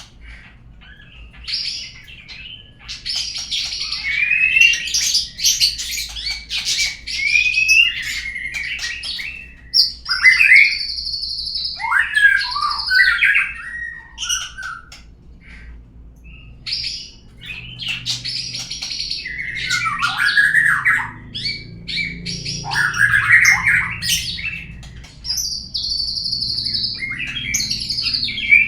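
Murai batu (white-rumped shama) song played as a lure to prompt a caged bird to sing. It comes in several bursts of varied phrases, clear whistles and gliding notes mixed with harsh, buzzy chatter, with short pauses between.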